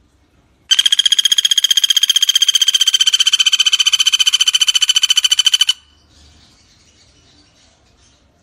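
Common flameback woodpecker (pelatuk bawang) giving one loud, rapid rattling trill lasting about five seconds, starting just under a second in and stopping abruptly.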